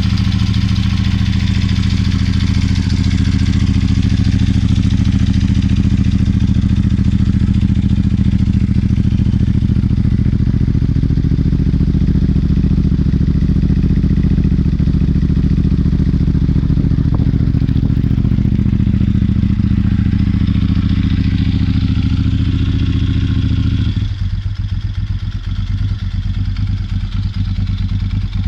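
Moto Guzzi V11 Scura's air-cooled transverse V-twin running steadily through Mistral aftermarket exhausts. About 24 seconds in, the sound changes abruptly, losing its upper tones and becoming lower and more pulsing.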